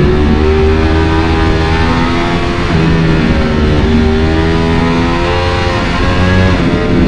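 Motorcycle engine running under steady riding, mixed with background music whose held notes change pitch in steps.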